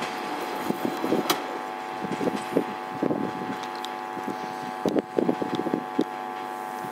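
Passenger train hauled by a TEP70 diesel locomotive moving away along the track: a steady engine drone with irregular knocks, and wind buffeting on the microphone.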